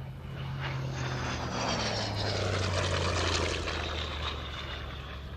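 Hawker Sea Fury's Bristol Centaurus radial engine and propeller as the aircraft flies past. The engine note drops in pitch as it passes and is loudest about three seconds in.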